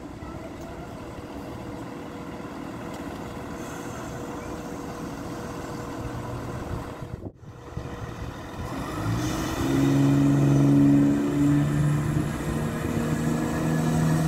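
Class 170 Turbostar diesel multiple unit arriving and slowing alongside the platform, first a steady rumble of wheels on track. About nine seconds in, a louder, steady low engine hum from its underfloor diesel engines comes in as the cab draws up close.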